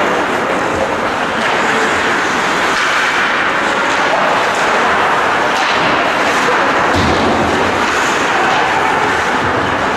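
Ice hockey rink ambience during play: a steady wash of noise with faint scattered knocks.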